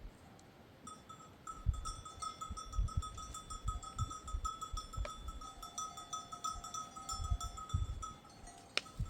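Small livestock bells on a flock of sheep or goats jingling steadily as the animals move, with scattered low thuds underneath. The jingling stops near the end, just before a sharp click.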